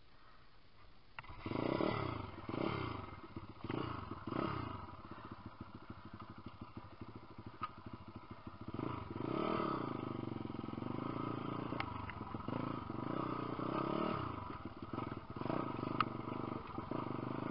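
Lifan 150cc single-cylinder pit bike engine, coming in suddenly about a second in and revved in four quick blips, then running with further rises and falls in revs.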